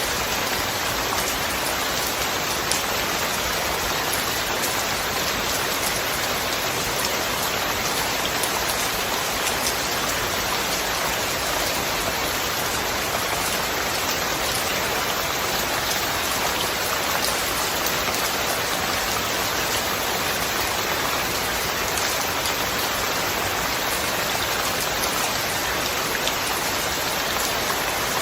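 Steady rain falling, an even hiss with the small ticks of single drops scattered through it.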